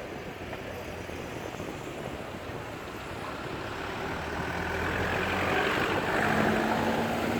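A motor vehicle's engine running steadily, growing louder over the last few seconds as it draws closer.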